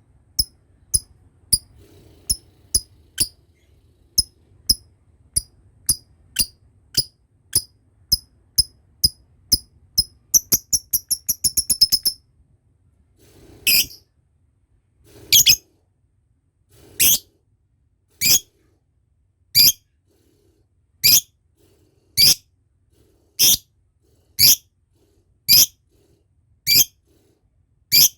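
Lovebird ngekek call: short, sharp, high-pitched notes about three a second that speed up into a rapid chattering run near the middle and break off. Then come louder, longer single shrieks about once a second.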